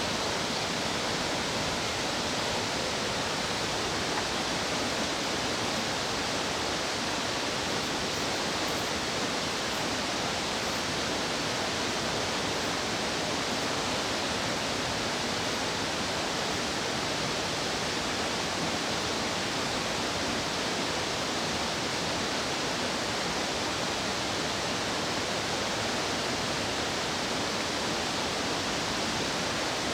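Steady rushing of a fast stream or small waterfall.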